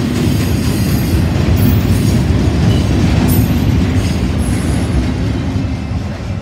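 Loaded freight flatcars rolling past close by: a steady heavy rumble of steel wheels on rail, with a brief faint high wheel squeal about four and a half seconds in. The sound eases slightly near the end.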